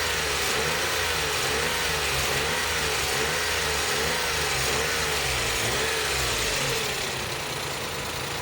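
Suzuki Every van's engine idling, with a whine that wavers up and down about once every three-quarters of a second. Near the end the wavering stops and the sound drops a little.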